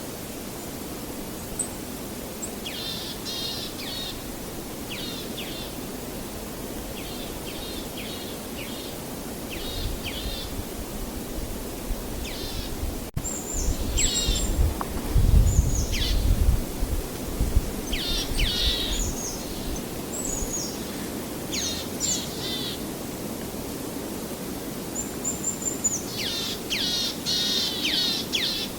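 Songbirds singing many short phrases of quick, falling notes, over a steady low background hiss. A brief low rumble swells about fifteen seconds in.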